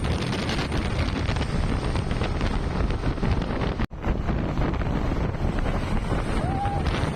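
Wind buffeting the microphone over the steady noise of road traffic, broken by a brief dropout about four seconds in.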